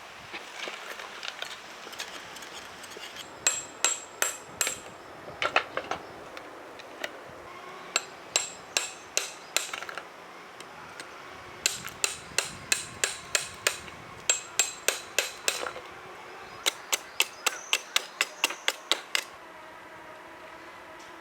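A hammer striking in quick runs of sharp taps, about three or four a second, with short pauses between runs. It is typical of breaking up a block of clear ice with a stake hammer.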